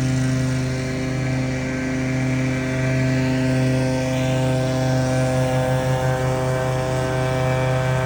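Gas-powered debris blower engine running steadily at high throttle, a constant droning hum over rushing air, with a brief flutter about five seconds in.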